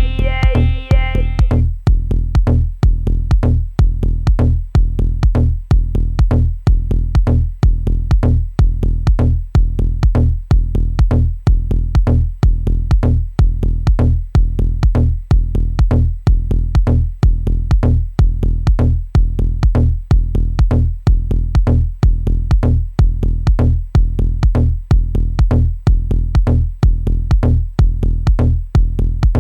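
Dub techno groove from a Maschine 2.0 drum machine and sampler: a steady kick beat about twice a second over deep bass. A synth chord above it dies away about a second and a half in.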